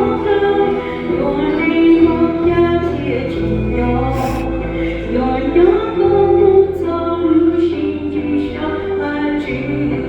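A church group singing a hymn together, women's voices prominent, over instrumental accompaniment with a steady bass line that moves from note to note.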